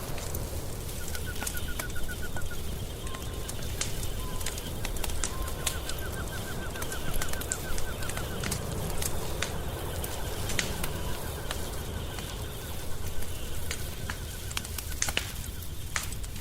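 Wood fire crackling and popping in a fireplace, with irregular sharp pops over a low steady rumble. A fast, rattling trill call comes three times in the background, and a few short soft tones sound in the first few seconds.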